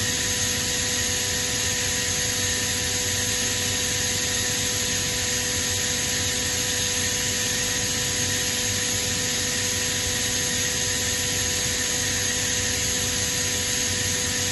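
Kaeser ASD37 oil-injected rotary screw air compressor running steadily: an even mechanical rush with a constant whine, no change in speed or load.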